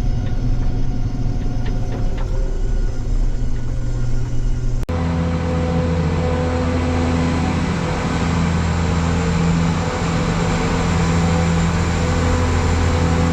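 Combine harvester running steadily with a constant engine drone. About five seconds in it breaks off abruptly and resumes as a different steady drone with more hiss over it.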